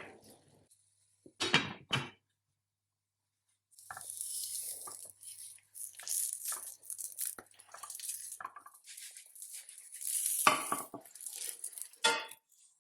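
Kitchen handling sounds: two sharp clatters of dishes or utensils early, then several seconds of rustling and scraping with small clinks, and sharper knocks of crockery near the end.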